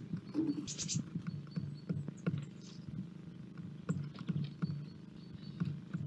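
Small birds foraging on a wooden feeder, giving irregular light taps and knocks as they peck and hop on the boards. A brief high rattling call comes about a second in, with a few faint thin high notes scattered through.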